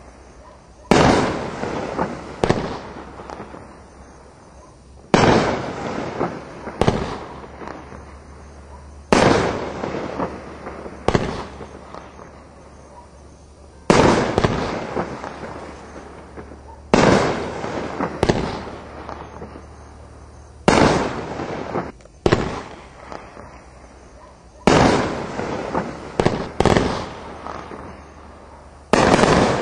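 2-inch consumer firework rack (1.4G mortar tubes) firing its shells one at a time: a loud report about every four seconds, each trailing off in rumbling echo, with smaller pops of shells lifting between.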